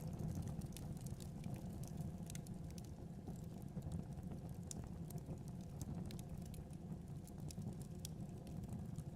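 Wood fire burning in a fireplace: a steady low rumble of flame with frequent small crackles and pops.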